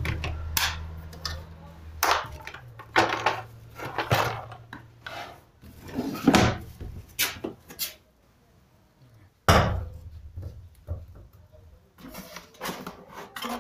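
Handling of a plastic vacuum cleaner body: irregular knocks, clicks and rubbing as it is moved and worked on by hand. A low hum lies under the first few seconds. Things go nearly quiet for a moment past the middle, then one loud knock follows.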